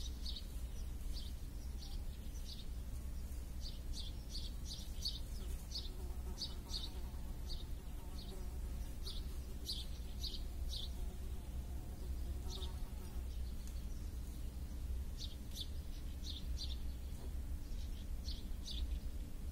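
Small birds chirping in short, high, repeated chirps that come in clusters, over a steady low outdoor hum. A faint buzz runs for several seconds in the middle.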